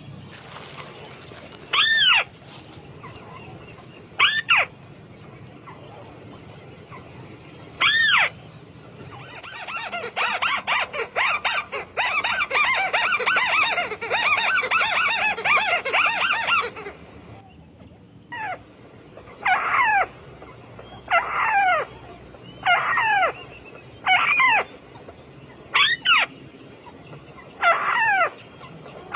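White-browed crake calling: loud single calls that drop steeply in pitch, repeated every two seconds or so, with a burst of dense rapid chattering in the middle, then the falling calls again.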